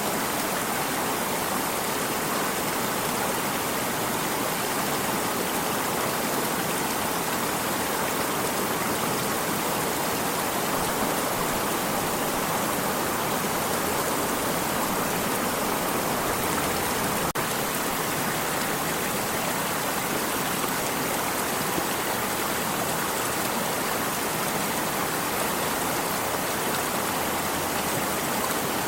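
Water stream flowing with a steady, unbroken rushing.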